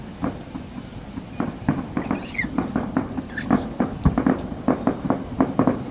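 Fireworks display: a rapid run of crackling pops that grows denser after about a second and a half, with one deeper bang about four seconds in.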